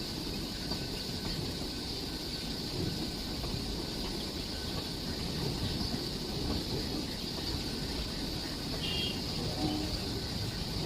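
Moving train, a steady low rumble with a constant high hiss above it. A brief chirp comes in about nine seconds in.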